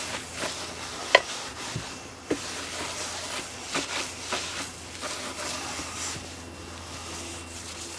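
Rag rubbing and light knocks and clicks of handling while an outboard motor's cowling is wiped down with WD-40, with one sharp click about a second in, over a steady low hum.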